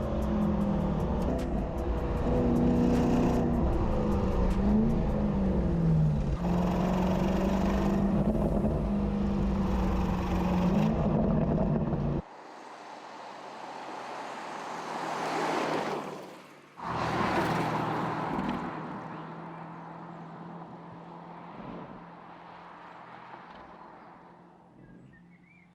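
Porsche Cayenne GTS's 4-litre twin-turbo V8 revving up and down under hard driving, then cut off abruptly about twelve seconds in. After the cut, a car passes twice with a rushing sweep, and the sound fades away near the end.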